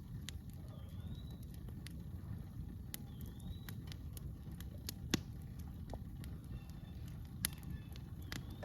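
Campfire crackling with scattered sharp pops, the loudest about five seconds in, over a low steady rumble. A bird repeats a short rising call every couple of seconds.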